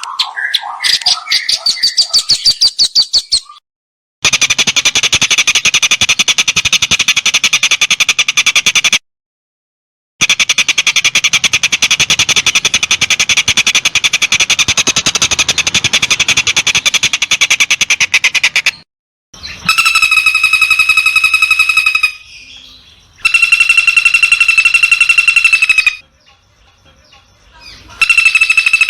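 Songbird recordings edited into a cendet tutor track. They start with a fast trill, then two long runs of very rapid repeated notes, the coarse rapid-fire 'tembakan'. The runs are separated by abrupt silent cuts. Three harsh buzzing calls follow near the end.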